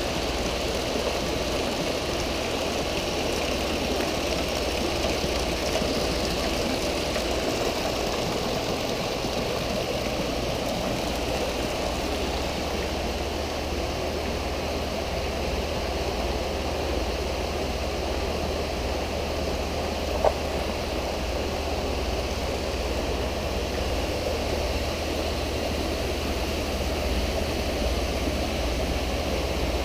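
Water from pool water features (a rain curtain, water bowls and laminar jets) falling and splashing steadily into a swimming pool, over a low steady hum. A single short click sounds about twenty seconds in.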